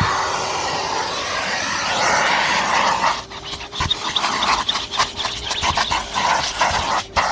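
Numatic Henry HVR200-22 vacuum cleaner running with a steady rush of air through the nozzle, which turns choppy with small clicks about three seconds in and again near the end as the nozzle is worked against surfaces.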